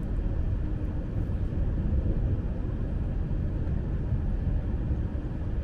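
Steady low rumble of a Lastochka electric train under way, heard from inside the carriage: wheels on the rails and running noise, without any single distinct event.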